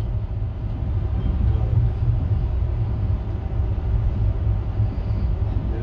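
Steady low rumble of VIA Rail's The Canadian passenger train running along the track, heard from inside the glassed-in dome of its Skyline car.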